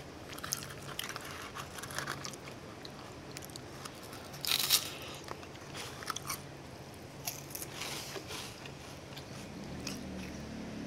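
Close-miked chewing and crunching of baked milk-ring biscuits soaked in milk, with scattered crisp mouth clicks and one louder crunch about halfway through.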